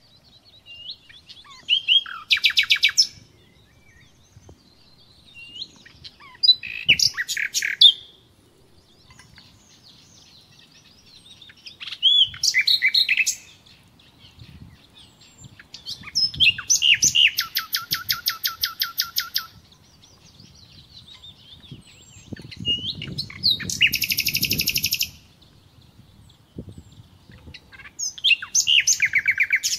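A songbird singing short phrases every few seconds, six in all. Each phrase has a fast trill of evenly repeated high notes.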